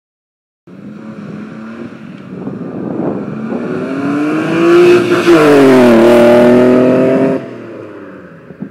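Nissan Skyline R33 GTS engine accelerating through an Xforce exhaust with a Varex adjustable muffler. The revs climb, drop sharply about five seconds in like a gear change, climb again, then fall away as the throttle is lifted.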